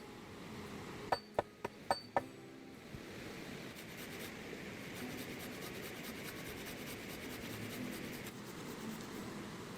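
Four sharp knocks in quick succession about a second in, then a steady rasping, scraping noise.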